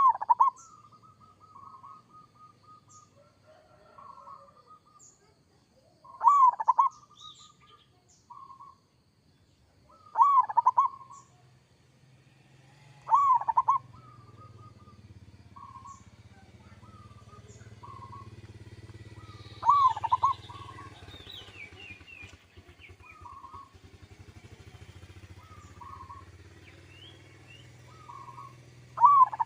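Zebra dove (perkutut) cooing: loud phrases every few seconds, with softer short coos between them. A low steady hum comes in partway through.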